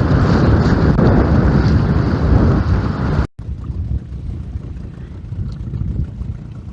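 Wind buffeting the microphone on an open boat, a loud rumbling rush that breaks off abruptly about three seconds in at an edit, then continues more quietly.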